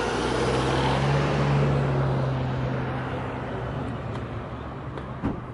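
A car engine running with a steady low hum. It grows louder to about a second and a half in, then fades away.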